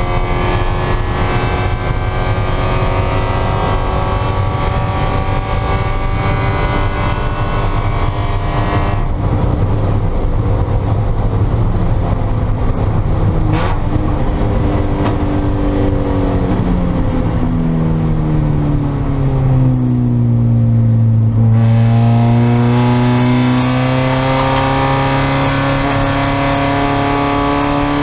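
Spec Miata race car's four-cylinder engine heard from inside the car, held at high revs, then falling in pitch over several seconds as the car slows for a corner. From about three quarters of the way through it climbs steadily again under acceleration.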